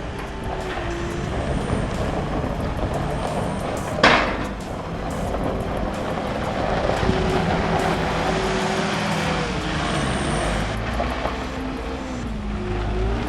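Heavy truck engine running steadily under load. Its pitch falls and rises again near the end, and there is a short, sharp burst of noise about four seconds in.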